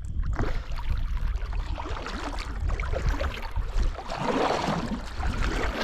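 Kayak paddling on a river: water splashing and swishing around the paddle and hull over a low rumble, with a louder splash about four seconds in.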